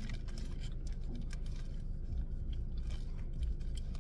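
A person chewing food close to the microphone, with irregular small crunches and clicks.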